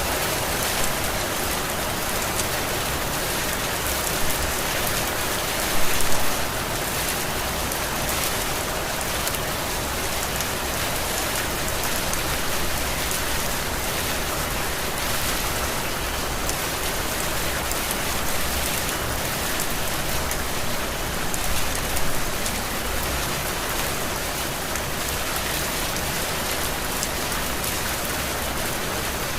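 Heavy rain falling steadily, a dense even hiss of drops on surfaces, with a brief louder surge about six seconds in.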